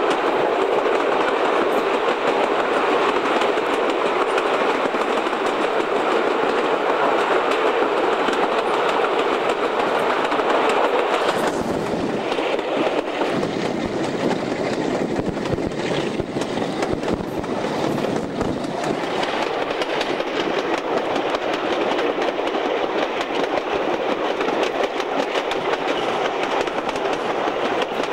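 Train heard from an open coach window while double-headed diesel-hydraulic locomotives, a Class 42 Warship and a Class 35 Hymek, work hard ahead: a steady loud roar of engines and rushing air. Wheels click over rail joints, plainest about halfway through.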